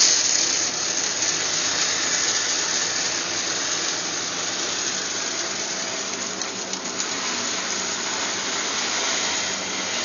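Crushed oyster shell poured into a 2-inch PVC pipe dispenser: a steady rushing rattle of shell grit running down the tube, slowly easing off.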